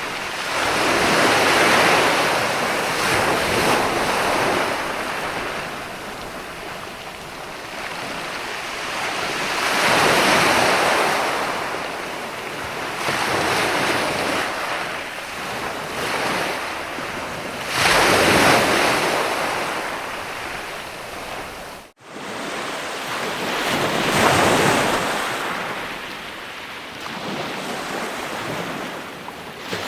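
Ocean waves breaking and washing in, the surf rising and falling in four slow swells. A sudden, momentary dropout in the sound comes about two-thirds of the way through.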